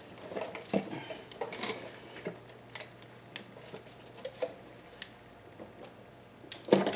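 Irregular light metallic clicks and knocks of small engine parts and hand tools being handled, with a louder clatter near the end.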